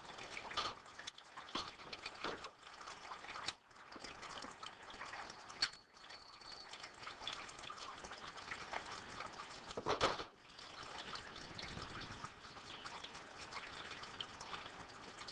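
Small irregular clicks and scrapes of metal parts being handled as the plungers are worked out of a brake master cylinder bore, with a sharper knock about ten seconds in.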